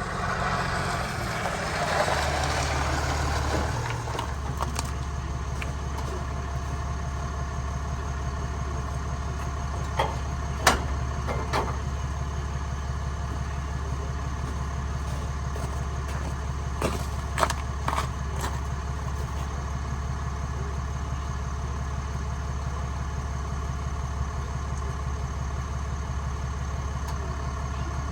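Ram pickup truck's engine idling steadily, a little louder for the first few seconds. Two small clusters of sharp clicks or knocks come through over it, about ten seconds in and again about seventeen seconds in.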